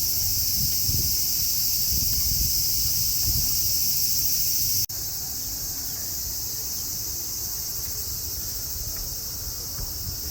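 Steady, high-pitched chorus of summer insects, a continuous shrill drone with no separate calls, becoming a little quieter about halfway through.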